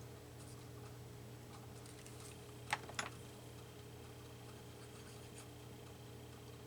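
Faint handling of paper cutouts on a work surface, with two light taps close together about three seconds in, over a steady low hum.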